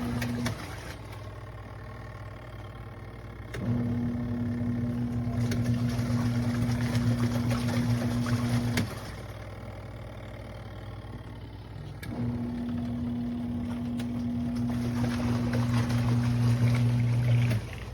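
Auertech twin tub portable washer's wash motor humming in runs of about five seconds with pauses of about three seconds between them, typical of a wash cycle reversing the agitator's direction. It stops about half a second in, starts again near four seconds and runs until about nine seconds, then runs again from about twelve seconds until just before the end.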